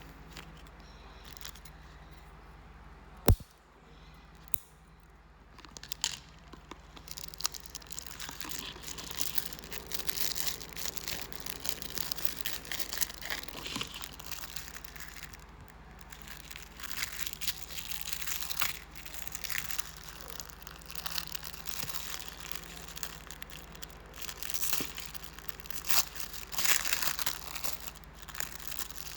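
Parcel packaging crinkling and tearing as it is unwrapped by hand, with a single sharp click about three seconds in.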